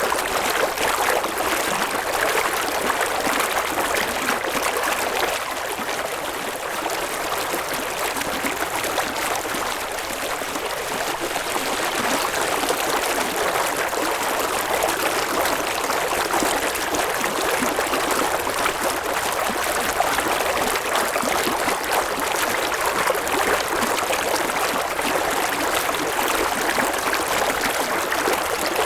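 River water flowing and babbling over stones, a steady rushing with a faint dip in loudness partway through.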